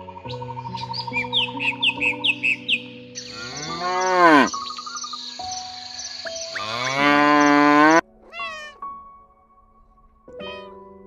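A cow mooing twice, long calls that rise and fall in pitch, followed by a cat meowing twice near the end. Soft background music runs beneath, with a quick run of short high chirps in the first few seconds.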